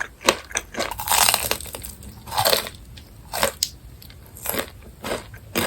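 Close-miked eating of cheese-seasoned fried chicken: the crisp coating crunching as it is bitten and chewed. Sharp crunches come at uneven intervals, with longer crunches about a second in and again near two and a half seconds.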